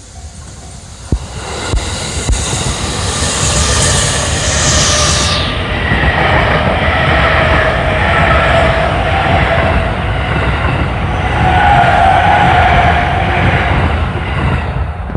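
E257-series electric limited-express train passing at speed over a level crossing. It grows loud about a second in with a few sharp clacks, then wheels rolling on the rails make a steady loud rush as the cars go by, easing off near the end.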